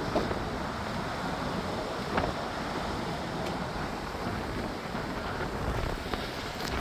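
Steady outdoor noise of road traffic passing below, with wind rumbling on the microphone.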